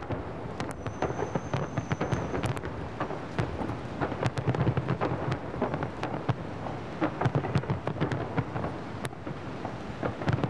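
Large aerial fireworks display: shells going off in a continuous barrage, a low rumble of bursts mixed with dense crackling.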